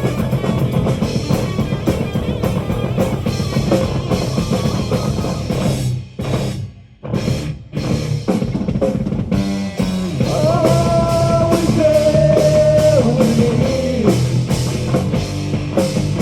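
Live heavy rock band playing an instrumental passage: drum kit and guitars, with a brief break of near silence a little before halfway, after which the band comes back in with long held guitar notes.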